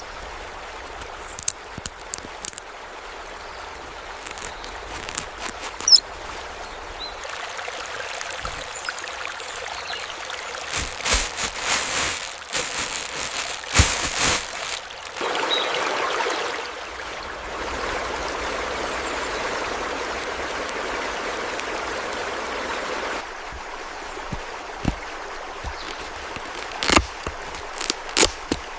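A small stream trickling and splashing over stones, with sharp little splashes now and then. The water sound shifts abruptly several times.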